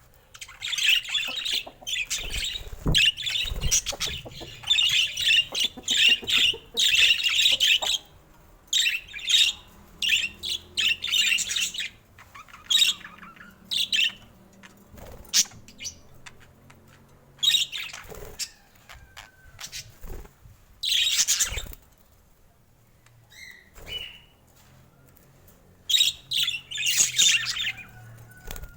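Budgerigars chattering and chirping in bursts of a second or two, broken by several short quiet pauses.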